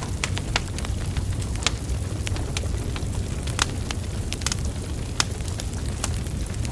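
Wood fire burning with a steady low rumble of flames and irregular sharp crackles and pops from the burning logs.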